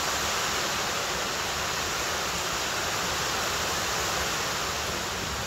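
Heavy rain falling, a steady rushing hiss that cuts off suddenly at the end.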